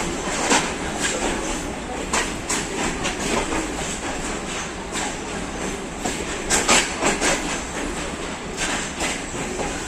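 Passenger train rolling slowly, its wheels clattering over the track with irregular sharp knocks, some coming in quick clusters, over a steady rumble.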